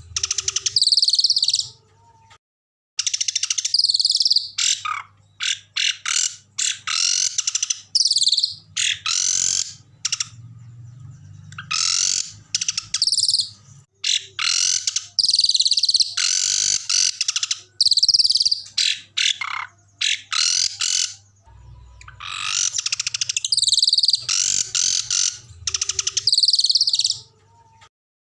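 Small songbird singing loud, rapid high-pitched trills and sharp chips in repeated phrases of a second or two, with short pauses between. A faint low hum lies under it.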